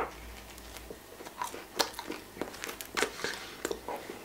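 A person biting into a grilled ham-and-cheese sandwich and chewing it, with a sharp bite at the start and then irregular crisp crunches of the toasted bread, several a second.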